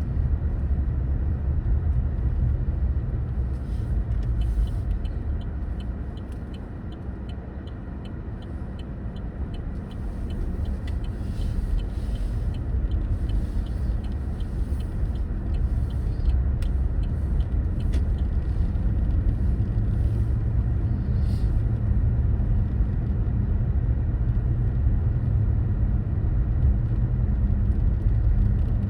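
Car driving: a steady low rumble of engine and tyres on the road. It goes quieter for a few seconds about a quarter of the way in, then builds again. A regular ticking, about two a second, runs for around a dozen seconds in the first half.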